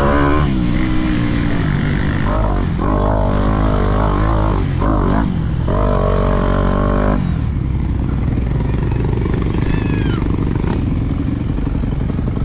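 Motocross bike engine revving up and down, the throttle shut off in short breaks between bursts, then settling to a lower, steady run about seven seconds in.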